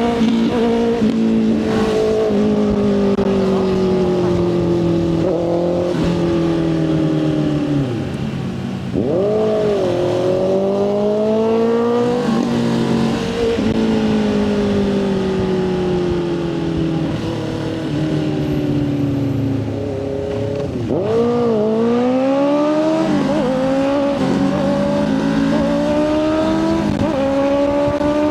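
Motorcycle engine running under way, its pitch rising and falling with the throttle. Twice, about nine and twenty-one seconds in, the engine note drops briefly and then revs sharply back up.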